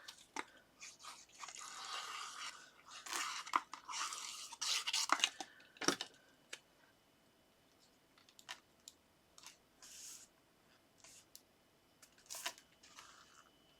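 Paper and card strips being handled and pressed down onto a card base: rustling and sliding with sharp little clicks for the first six seconds or so, then only scattered light taps.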